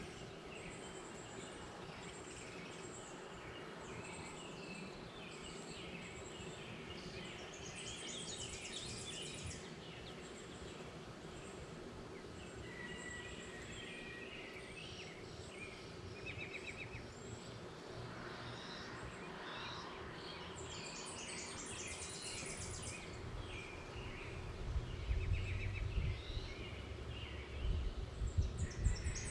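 Several wild birds chirping and singing at once, with a few short, fast high trills, over a faint steady hum. Low rumbling knocks come in over the last few seconds.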